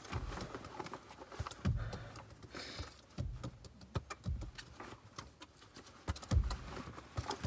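Scattered taps, clicks and rustling of someone rummaging through things inside a car cabin, with a few low thumps, the loudest about a second and a half in and again near the end.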